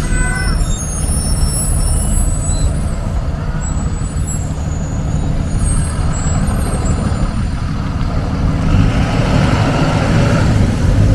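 Street traffic with a heavy vehicle such as a truck or bus rumbling steadily. A hissing swell comes in near the end.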